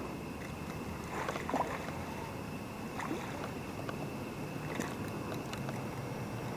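Steady running water of a shallow river, with a few faint short ticks scattered through.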